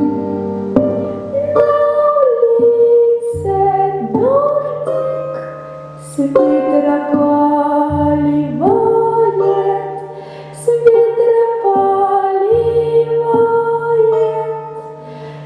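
Music: a woman singing a slow Russian folk song over a sustained low accompaniment, her notes scooping upward into each new phrase.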